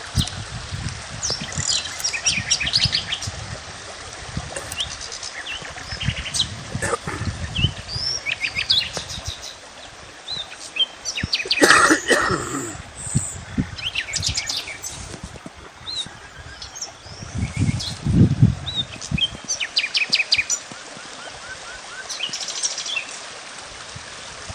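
Several small wild birds chirping and trilling in short, repeated phrases, with a louder, harsher call about halfway through.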